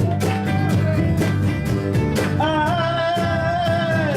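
Live band playing a rock-blues song, with drums keeping a steady beat under bass and guitar, and one long high note held through the second half.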